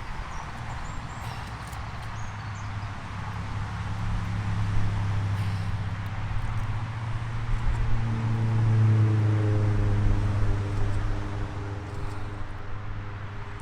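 A low, steady engine drone with a hum and overtones, growing louder through the middle and easing off near the end.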